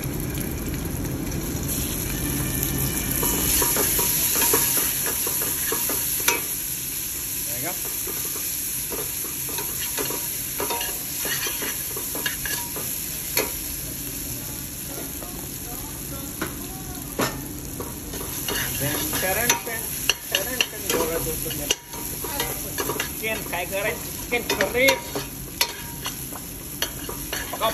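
Ginger-garlic paste and fried onions sizzling in hot oil in a stainless steel pot, stirred with a steel spoon. From about halfway in, the spoon scrapes and clicks against the pot more and more often.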